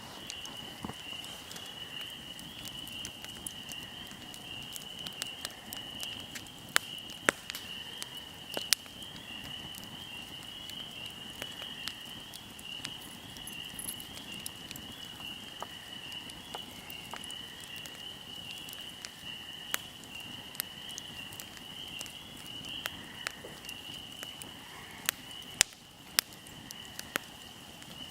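A wood fire crackling, with irregular sharp pops, a few much louder than the rest. Behind it runs a steady high insect chirring, like crickets.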